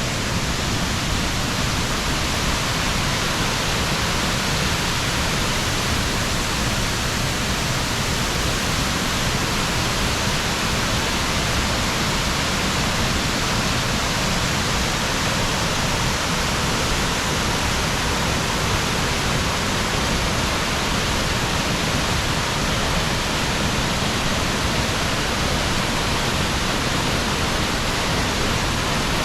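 Loud, steady rush of heavy falling water, unbroken and even throughout.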